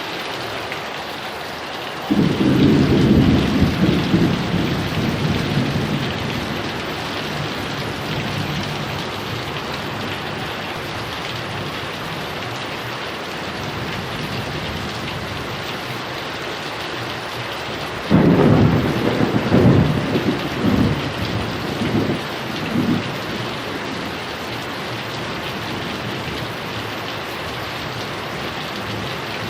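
Heavy rain falling steadily, with two peals of thunder: one cracks in about two seconds in and rumbles away over several seconds, and a second about two-thirds of the way through rolls on in a series of rumbles before dying away.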